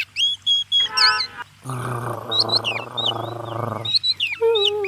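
Birds chirping, with a rough animal call lasting about two seconds in the middle and a falling whimper-like whine near the end, in a cartoon dog's sound effects.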